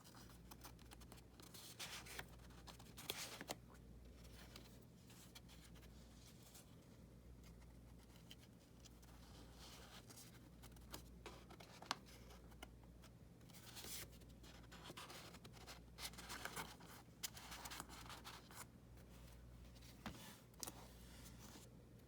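Faint, scattered rustles and scrapes of paper and cardstock being handled as folio flaps are opened and card inserts slid in and out, over a steady low hum.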